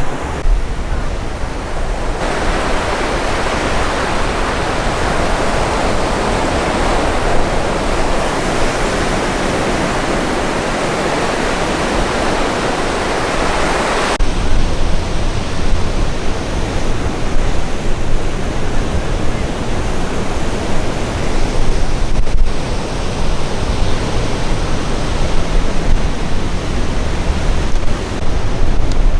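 A steady rush of water. About 14 seconds in it cuts abruptly to a lower, uneven rush of surf, with wind rumbling on the microphone.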